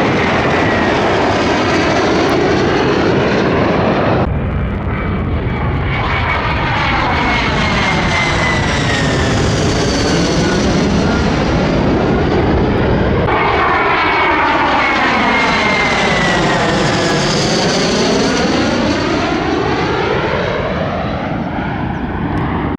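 F-35A Lightning II's single Pratt & Whitney F135 turbofan, loud and continuous as the fighter flies past, the noise sweeping down and back up in pitch twice, with a faint falling whistle above it.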